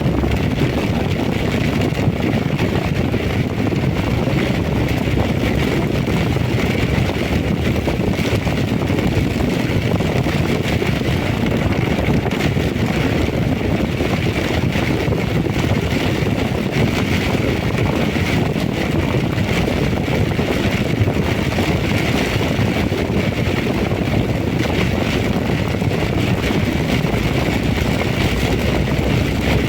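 Heavy rain and strong wind: a steady, loud rushing noise with wind buffeting the microphone.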